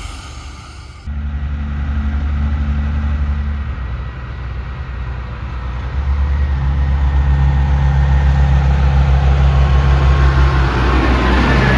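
Heavy truck's diesel engine running with a deep, steady drone. It comes in suddenly about a second in and grows louder about six seconds in, while road noise from a passing vehicle swells near the end.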